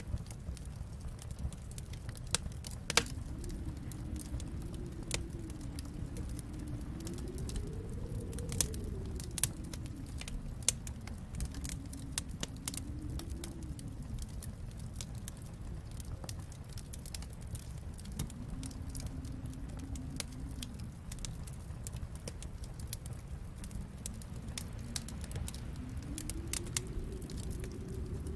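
Wood fire crackling in a fireplace, with scattered sharp pops and snaps over a steady low rumble. Through it a low howl, most likely wind, rises and falls slowly in long swells.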